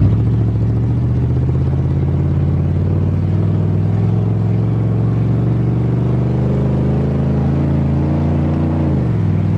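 1988 Chevrolet pickup's engine pulling under acceleration, heard from inside the cab. Its revs climb slowly for about nine seconds, then fall sharply as the transmission shifts up.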